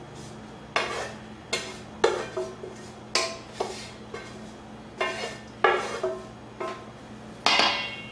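A kitchen utensil knocking and scraping against a pan as sautéed carrots, celery and onions are scooped out: about a dozen irregular clanks, each with a short ring, the loudest near the end.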